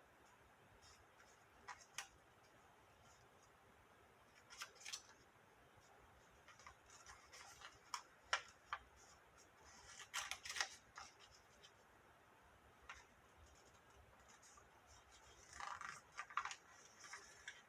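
Cardstock being handled and folded: faint, scattered crinkles and taps of stiff paper, with a short cluster about ten seconds in and another near the end.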